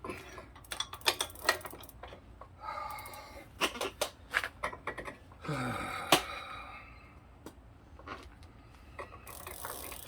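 Metal wrench clicking and clanking on a bicycle pedal as it is worked out of the crank arm in short turns, with a few short squeaky creaks; the pedal threads are stiff and the wrench is too short to turn it easily.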